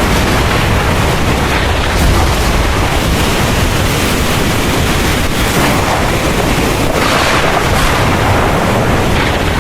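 Heavy rain pouring steadily with a deep, continuous rumble of thunder underneath; the rain's hiss swells briefly about seven seconds in.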